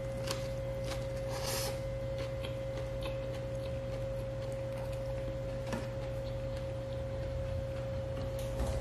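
A steady high hum and a low drone, over which come a few faint, soft sounds of a person chewing a mouthful of rice and cabbage with the mouth closed.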